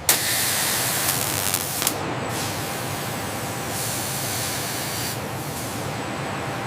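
A steady hissing rush of noise that starts abruptly, with a few sharp clicks in the first two seconds.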